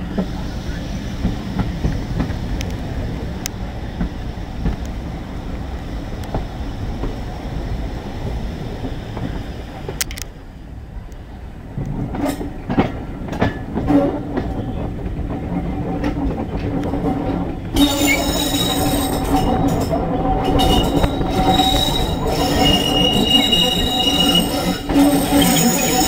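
Wheels of a 2-EPB electric multiple unit rumbling along jointed track, heard from on board. About halfway there is a run of sharp rail-joint clicks, and from about two-thirds in the wheels squeal on the rails with several high, steady whining tones over the rumble.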